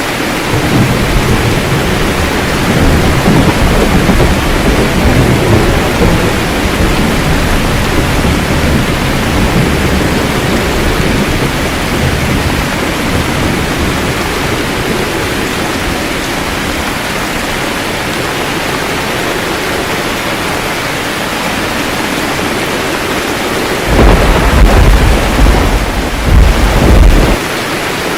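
Steady rain with thunder rumbling low through the first several seconds, then a sudden loud thunderclap about 24 seconds in that rumbles on for about three seconds.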